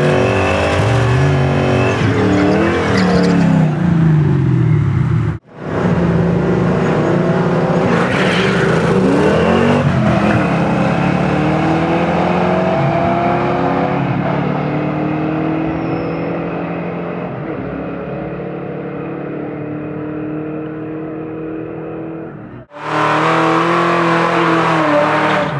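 Muscle car engines revving and accelerating hard, their pitch climbing, then fading as the cars pull away into the distance. The sound breaks off abruptly twice, about five seconds in and near the end.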